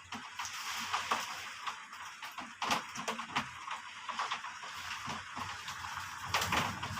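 Heavy rain falling: a steady hiss with irregular taps and knocks of drops striking a hard surface, with a stronger patter about a third of the way in and again near the end.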